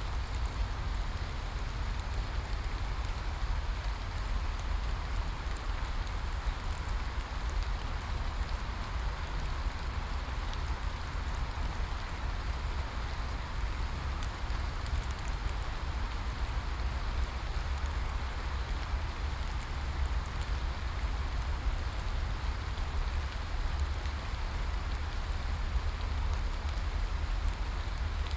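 Steady rain falling, an even hiss with faint scattered drop ticks and a constant low rumble underneath.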